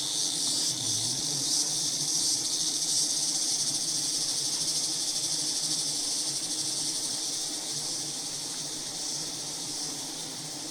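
Insects singing in a steady, high-pitched chorus that holds on without a break, with a faint low hum beneath it.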